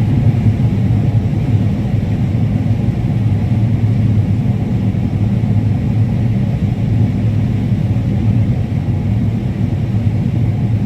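Combine harvester running steadily while cutting corn, an even low drone that holds unchanged throughout.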